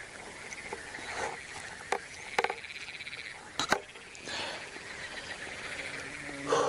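Steady high trilling chorus of calling animals, with a few sharp clicks about two seconds and three and a half seconds in.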